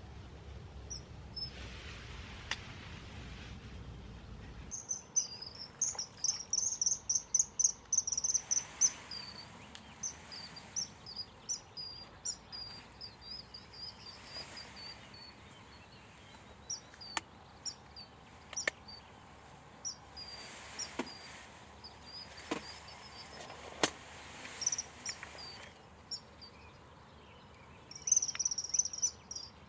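Common kingfishers calling: rapid runs of high, shrill piping notes, loudest about five to nine seconds in and again near the end. A few sharp clicks fall in the middle.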